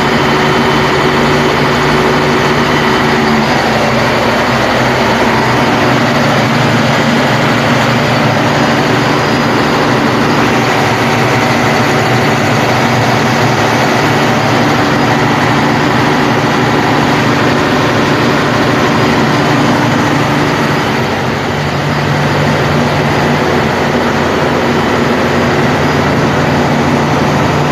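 An engine running steadily at a constant speed on a test run, loud and close, with a brief slight dip in level about three-quarters of the way through.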